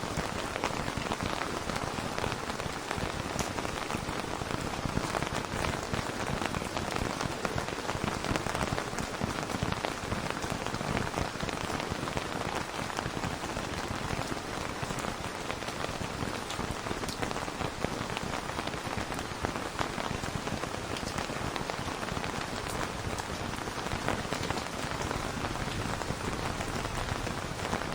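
Steady rain falling on a surface, a dense even patter of many drops with fine individual drop taps throughout.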